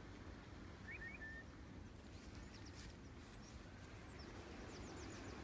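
Faint bird calls: a few short chirps about a second in, then a string of thin, high chirps over the next few seconds, over quiet background noise.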